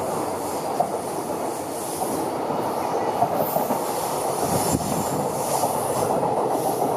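Container flat wagons of a freight train rolling past, their wheels rumbling and clattering over the rails with scattered clicks. A faint high wheel squeal runs over it around the middle.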